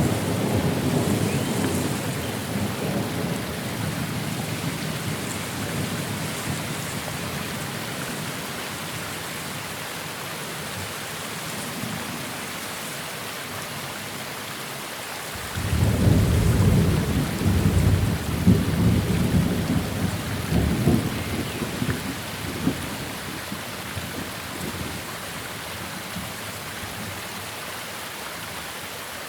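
Steady rain with rolling thunder. A rumble dies away over the first several seconds, and about halfway through a new peal breaks suddenly and rumbles for several seconds before fading back under the rain.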